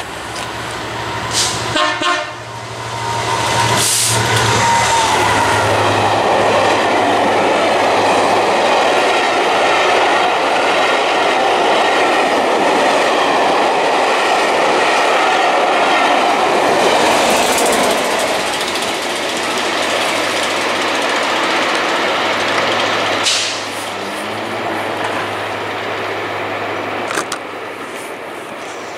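Locomotive-hauled train of Pullman coaches passing through the station at speed. It sounds its horn on approach in the first few seconds, then a long, steady rush of wheels and coaches lasts about twenty seconds. Near the end the sound drops to the quieter running of another approaching diesel locomotive.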